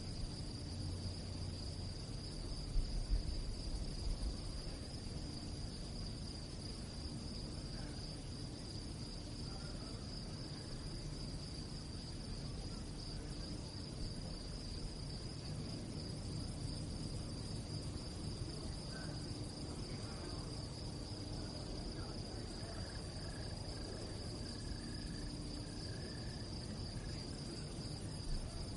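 Crickets chirping in a continuous, high-pitched trill that holds steady throughout. A brief low rumble sounds about three seconds in.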